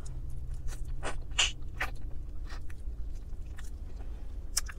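Biting into and chewing a piece of roasted chicken: irregular short clicks and smacks of the mouth as she eats.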